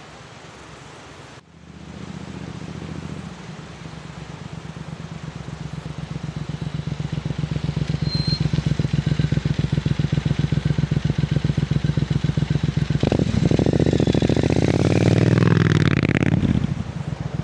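Triumph Scrambler 900 parallel-twin motorcycle approaching with a steady exhaust beat that grows louder for several seconds. It sweeps past about thirteen seconds in, its exhaust note dropping in pitch as it goes by, then starts to fade.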